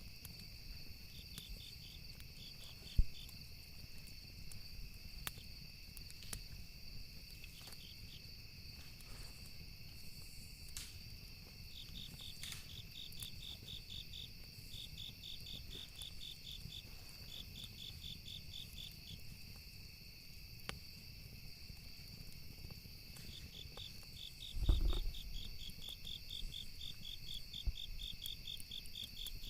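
Campfire ambience: wood crackling with scattered sharp pops, the loudest about three seconds in, over a steady high insect drone and repeated bursts of rapid cricket chirping. A low thump sounds near the end.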